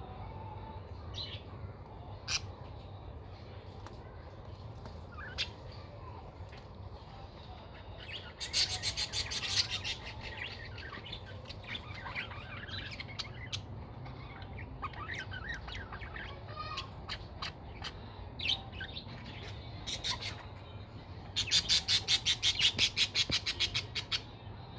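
Small pet parrots chirping now and then, with two long runs of fast, sharp repeated calls at about nine a second. The first run comes about eight seconds in, and a louder one comes near the end.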